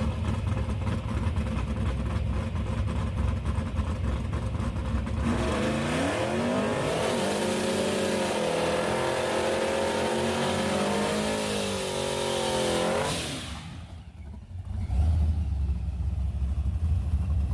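Drag-racing truck's V8 rumbling low, then about five seconds in accelerating hard, its pitch climbing in steps through the gears and held high for several seconds before fading away near the end. A low engine rumble returns in the last few seconds.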